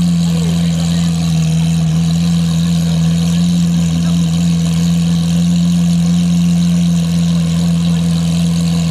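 Car engine idling steadily at a constant pitch, with no revving.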